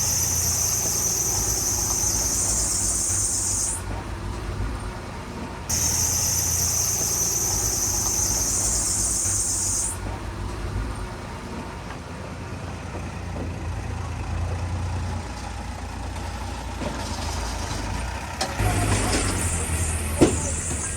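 Heavy diesel machinery, dump truck and bulldozer, running with a steady low engine rumble. A loud high hiss starts and stops sharply twice: from the start to about 4 seconds in, and from about 6 to 10 seconds.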